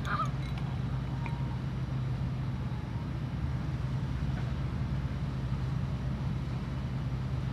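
A steady low rumble with a constant hum, like distant road traffic.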